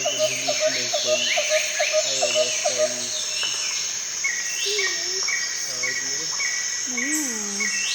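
Rainforest ambience of insects chirring steadily at a high pitch, with rapid repeated chirping calls, then an even chirp about twice a second from about halfway, and a few swooping whistled calls near the end.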